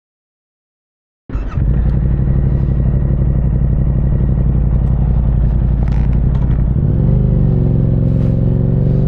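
After about a second of dead silence, a Yamaha MT-07's parallel-twin engine, fitted with an Akrapovic racing exhaust, idles with a fast, even beat. About seven seconds in, the engine speed rises a little and holds as the bike starts to roll out of stopped traffic.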